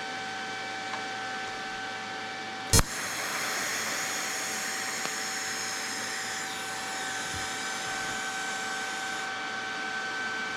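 TIG welding tack on stainless steel pipe: the arc strikes with a sharp crack about three seconds in, then hisses steadily for several seconds before stopping, over a steady hum from the welding set.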